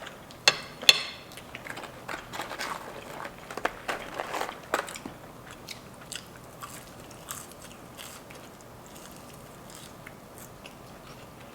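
Close-miked eating: two sharp crunching bites about half a second in, then crackly chewing for a few seconds that fades to faint, occasional chewing sounds.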